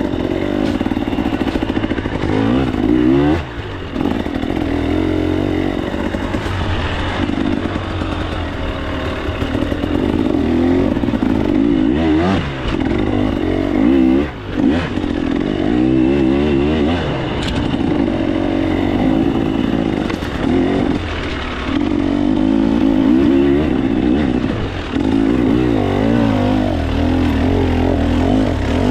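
KTM 300 XC-W two-stroke dirt bike engine revving up and down as the throttle is worked, with short throttle chops a few times.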